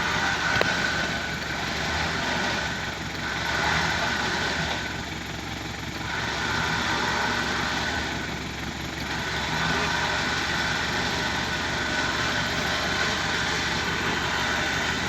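Truck engine running steadily, its loudness rising and falling a little every few seconds.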